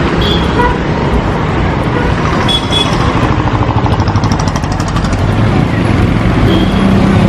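Road-vehicle noise: a steady low rumble of traffic or a car running, with a few short high beeps and a brief run of fast, even ticking about four seconds in.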